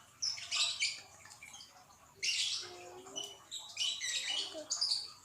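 Slime being squeezed and kneaded by hand, giving short, crackly squelches in bursts every second or so.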